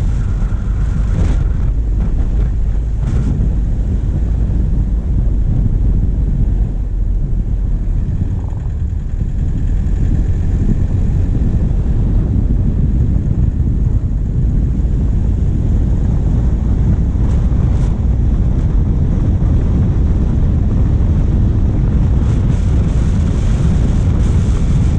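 Steady low wind rumble on a bonnet-mounted camera's microphone over a diesel vehicle engine running as it drives, with a few faint light clicks.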